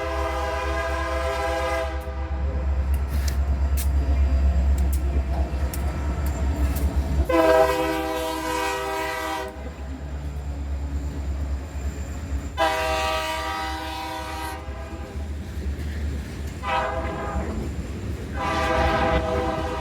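Diesel freight locomotives' air horn blowing a sequence of blasts over the steady low rumble of the locomotives' engines: one blast ends about 2 seconds in, then two long blasts, a short one and another long one near the end. The closing long, long, short, long pattern is the standard grade-crossing signal.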